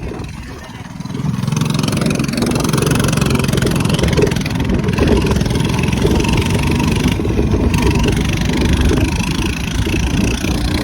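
Minibike engine running under way, easing off briefly just after the start and picking back up after about a second and a half, then running steadily.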